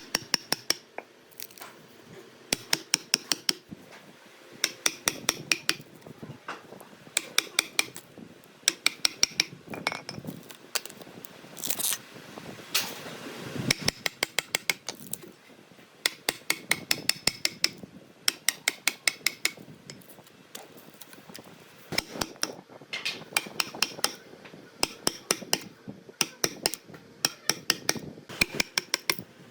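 Metal striking metal in quick bursts of ringing taps, four to eight strikes at a time and repeated every second or two, with a rasping scrape about halfway through.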